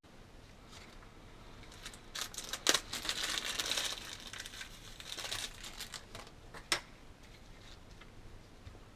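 Crinkling, rustling handling noise, loudest between about two and six seconds in, with two sharp clicks about four seconds apart.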